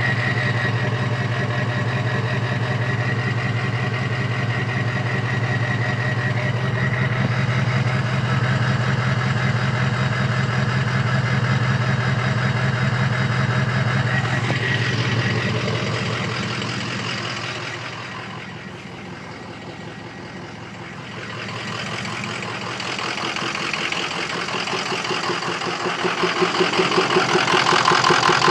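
Diesel engine running at idle, which the owner suspects of injector stiction or failing injectors. It runs steadily, drops in level for a few seconds past the middle, then comes back louder with a pulsing beat near the end.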